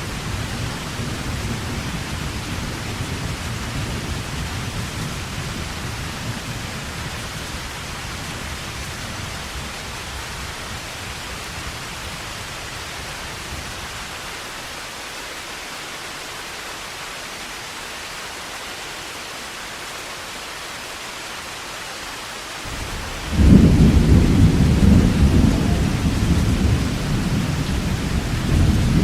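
Heavy rain falling steadily with thunder: a low rumble dies away over the first half, then a loud new peal of thunder breaks about three-quarters of the way through and keeps rumbling.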